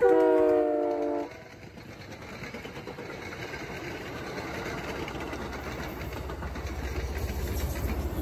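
MBTA commuter train horn sounding a chord that cuts off about a second in. Then the rumble of the passing bilevel passenger coaches builds steadily, with a rhythmic clatter of wheels over the rail joints near the end.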